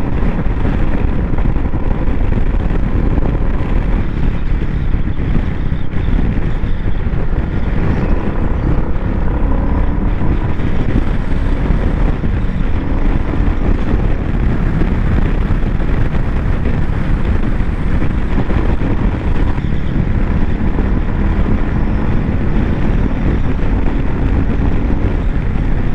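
Royal Enfield Bullet 350's single-cylinder engine running steadily while the motorcycle rides along, its pitch drifting only slightly.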